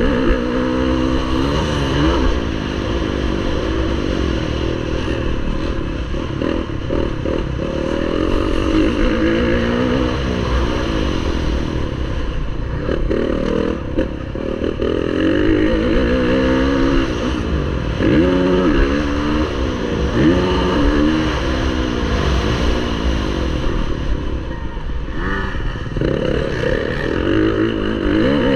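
Off-road motocross bike engine revving hard and backing off again and again, its pitch climbing and dropping every second or two through the gears.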